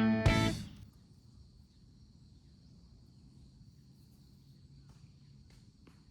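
A strummed electric guitar music track ends within the first second. Then faint, steady insect trilling carries on as one thin high band, with a few soft clicks.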